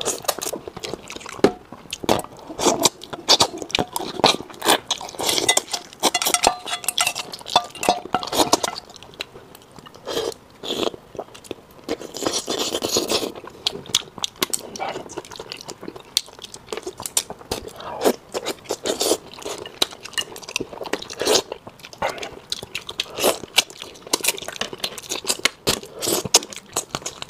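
Close-miked eating sounds of fish pieces being bitten and chewed off the bone: wet smacking, crunching and sucking, with a longer slurp about halfway through and occasional chopstick clicks against the bowl.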